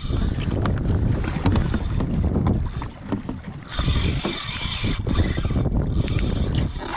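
Wind buffeting the microphone and sea water washing around a kayak in rough seas, with a louder rush of water, like a splash or wave, from about four to five seconds in.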